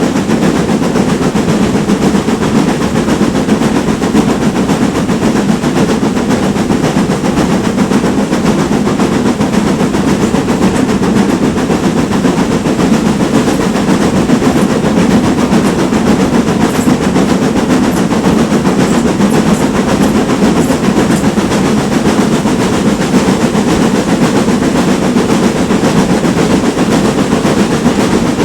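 Steam train hauled by a GWR Manor class locomotive, running steadily along the line, with a continuous loud rumble and rattle. A few faint high ticks come through about halfway in.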